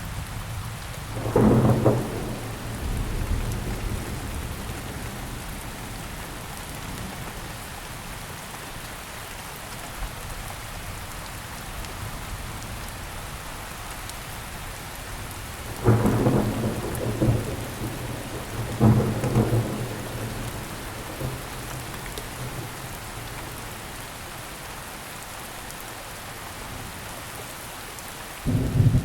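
Steady rainfall in a thunderstorm, with loud peals of thunder near the start, twice past the middle and again at the very end.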